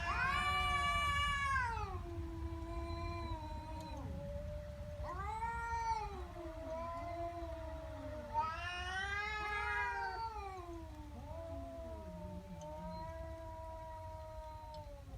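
Angry domestic cat yowling in a threat display: long drawn-out wails that swell and fall in pitch, one running into the next, with three louder rising cries at the start, about five seconds in and about eight seconds in.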